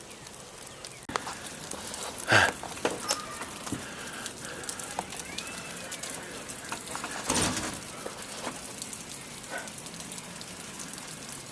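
Steady crackling patter of falling ice and water drops on snow- and ice-covered surfaces, with two short louder rushes, about two and seven seconds in.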